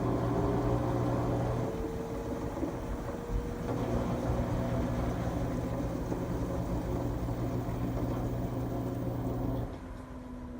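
LG Tromm WD-CR101C front-loading drum washing machine running a quick wash: the motor turning the drum hums steadily, with a slowly rising whine. The hum drops away suddenly about nine and a half seconds in.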